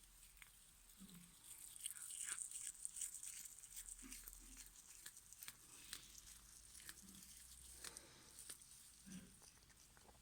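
A cat chewing and tugging at foil Christmas tinsel: faint, irregular crinkling and rustling with small clicks, busiest in the first half.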